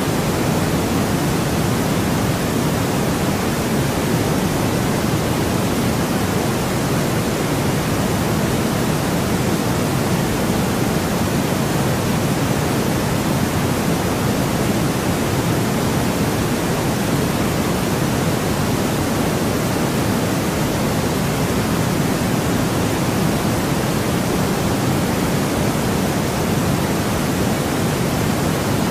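Steady, unchanging white noise: an even hiss across the whole range, a little fuller in the low end.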